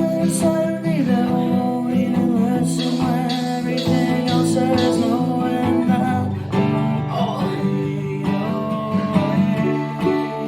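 Acoustic guitar playing a song, with sustained ringing notes and chord changes.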